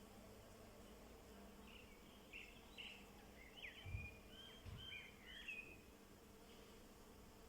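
A small bird twittering faintly: a quick run of short chirps and sliding notes over a quiet background. Two dull low thumps come in the middle.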